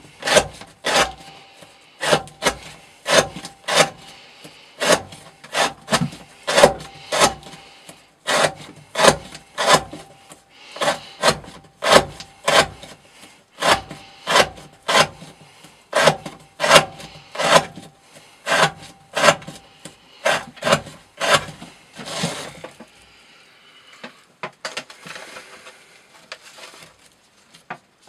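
Knife blade slicing through rope onto a wooden board: a long run of quick, sharp cuts, a little more than one a second, that stops about 22 seconds in and is followed by faint rustling.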